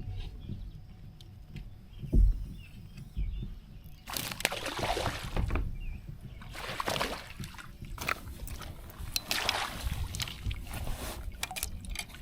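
Water sloshing and splashing against a kayak hull, in several swishes about two seconds apart, with a single knock about two seconds in.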